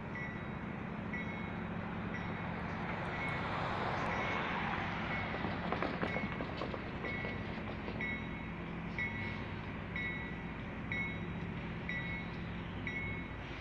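Electronic railroad crossing bells (General Signals Type 1) ringing steadily, about one ding a second, over a passing train's steady low diesel engine hum. A swell of rushing noise with a few clicks rises and falls between about three and seven seconds in.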